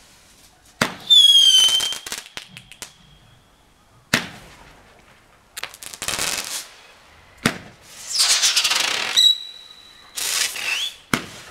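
A 5-shot cube-shell roman candle firing: four sharp launch reports about three and a half seconds apart, each followed by about a second of hissing with high whistles, the first whistle gliding down in pitch.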